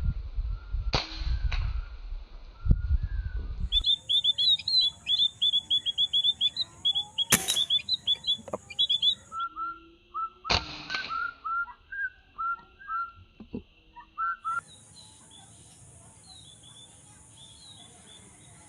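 Small birds chirping in quick series of short calls. Two sharp shot cracks break in about seven and ten and a half seconds in, with fainter knocks in the first three seconds.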